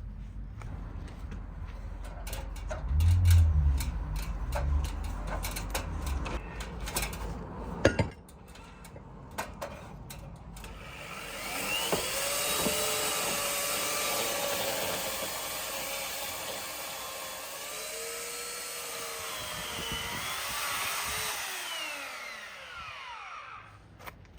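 Power saw cutting through a small tree trunk for about twelve seconds from roughly ten seconds in, its motor pitch sagging and rising as it bites into the wood. Before the cut there is a low rumble with scattered knocks.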